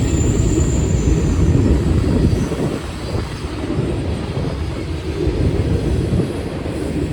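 Freight train rolling past close by: a steady, dense rumble of wheels on rail.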